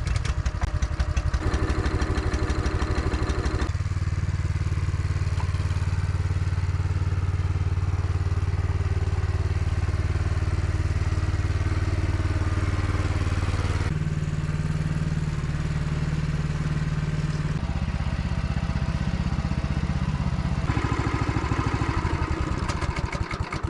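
A small engine running steadily with a rapid firing pulse. Its pitch shifts a few times, rising for a few seconds about two-thirds of the way through.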